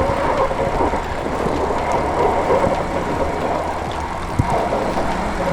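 Steady rumbling road noise from a Lectric XPeak fat-tire e-bike coasting downhill over a snowy, rutted road, with one short knock about four seconds in.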